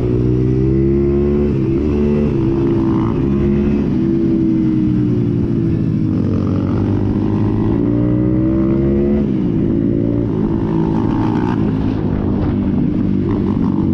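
Pit bike engine running under way, its pitch climbing and then dropping sharply several times.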